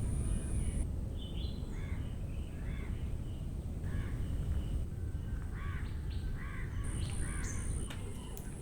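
A bird calling over and over, a series of short arched calls spaced roughly half a second to a second apart, over a steady low rumble. A thin, high, steady whine is heard at the start and returns near the end.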